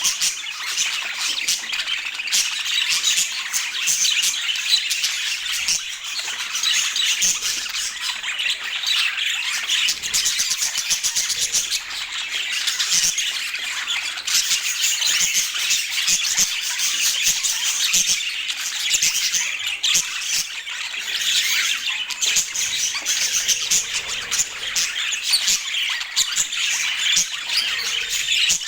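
Budgerigars chattering and squawking without pause: a dense mix of rapid, scratchy warbles and chirps.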